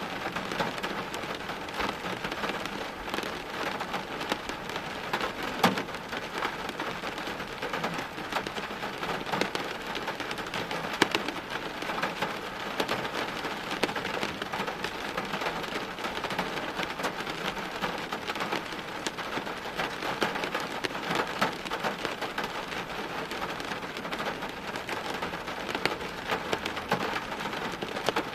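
Steady rain falling on hard surfaces, a dense patter of drops with now and then a sharper drip or tap standing out.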